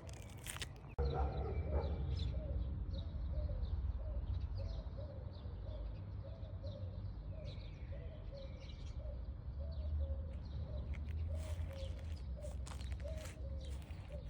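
An animal's short chirping calls, repeated about two to three times a second, with fainter high chirps above them, starting abruptly about a second in. A steady low rumble runs underneath.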